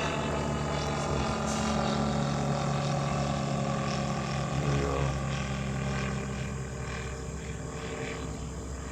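Aircraft engines passing overhead, a steady drone whose tones slowly fall in pitch and fade as it moves away.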